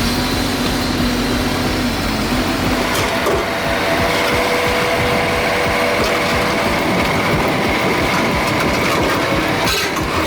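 Heavy vehicle engine running steadily, a dense mechanical noise with a steady whine whose pitch shifts a few seconds in.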